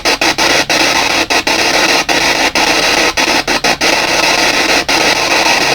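P-SB7 spirit box sweeping through radio frequencies: loud, steady static hiss chopped by brief, irregular dropouts as it jumps between stations.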